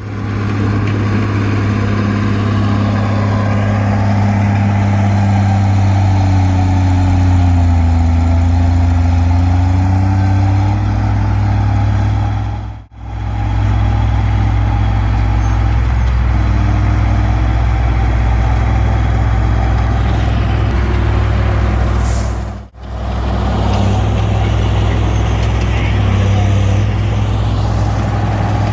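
Komatsu D20P bulldozer's diesel engine running steadily under load as it pushes brush, its pitch sagging and recovering between about six and ten seconds in. The sound cuts out briefly twice, about a third and three quarters of the way through.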